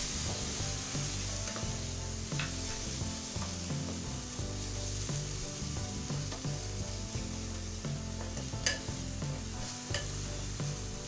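Chopped tomato and onion-coconut masala sizzling in hot oil in a pressure cooker, stirred with a spatula, with a few sharp scrapes and knocks of the spatula against the pot.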